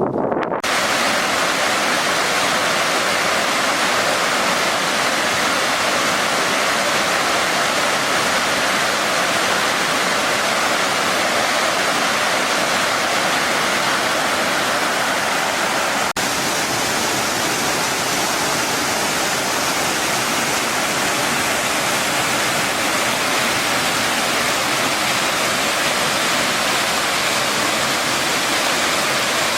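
Mountain valley stream rushing: a steady, even rush of flowing water.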